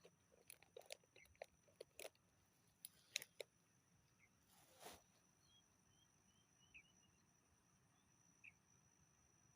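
Near silence with a steady high thin hum, broken by scattered faint clicks and taps in the first few seconds and one brief rustle about five seconds in.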